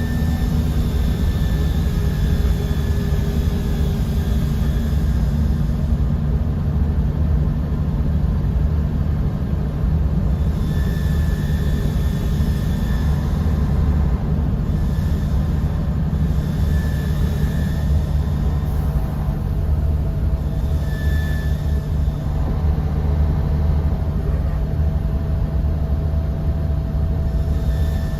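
Bus interior on the move: the diesel engine's steady low drone under road noise. Faint high whines come and go every few seconds.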